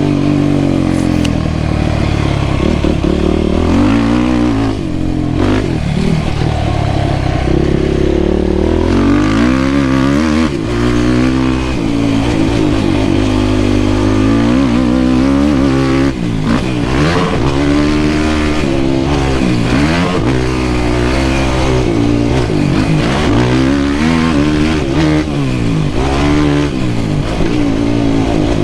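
Yamaha YFZ450R quad's single-cylinder four-stroke engine under hard riding, revving up and dropping back again and again as the throttle is opened and rolled off every second or two.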